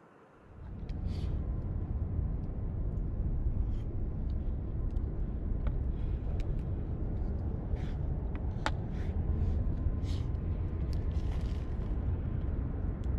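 Wood fire crackling in a camp fire pit, scattered sharp pops over a steady low rumble.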